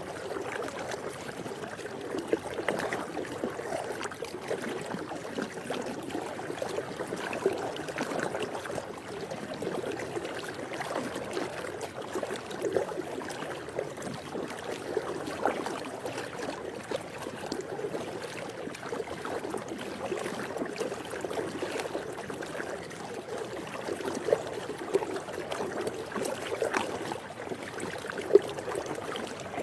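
Swimming pool water lapping and sloshing continuously, with small irregular splashes scattered through it and a sharper splash near the end.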